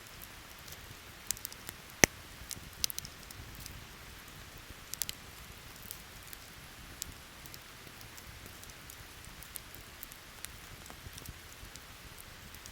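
Steady rain hissing, with scattered sharp crackling pops from a wood campfire; the loudest pop comes about two seconds in, with a few more around three and five seconds.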